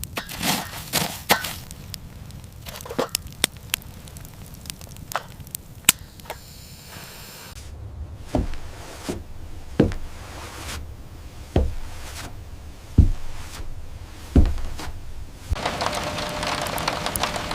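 A knife chopping pumpkin on a wooden cutting board: sharp knocks at first, then a run of dull thuds a second or so apart. A steady hiss of rain comes in near the end.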